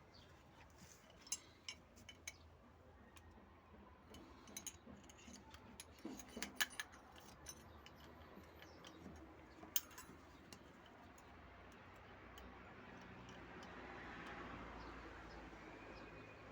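Faint scattered clicks and taps of small hard objects being handled, bunched together in the middle, with a faint low hum rising near the end.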